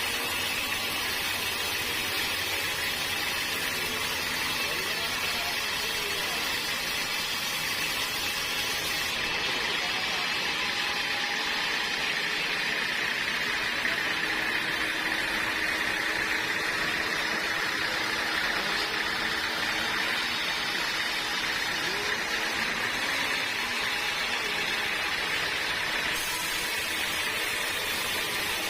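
Band sawmill running steadily, a constant mechanical drone with a hiss that holds at one level throughout.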